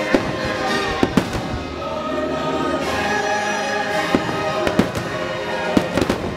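Aerial fireworks exploding in sharp bangs, about nine in a few seconds, some in quick pairs and a cluster near the end, over loud show music with singing.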